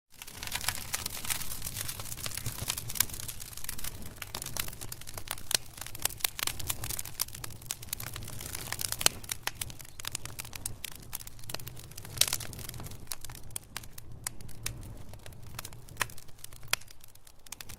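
Wood fire crackling and popping, with many sharp irregular pops over a low steady rumble of the flames; the pops come thick at first and thin out toward the end.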